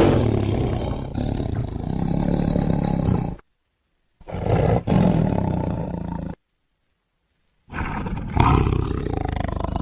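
Tiger roaring in three separate recorded calls edited together, with dead silence between them: the first ends about three and a half seconds in, the second runs from about four to six and a half seconds, and the third starts near eight seconds and carries on.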